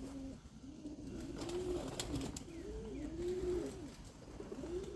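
Racing pigeons cooing, a steady run of low rising-and-falling coos from several birds overlapping, with a few faint clicks in the middle.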